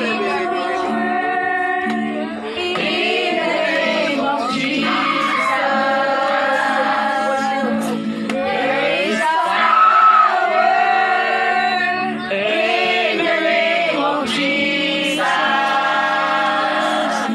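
Choir singing a worship song, several voices holding long sung notes together.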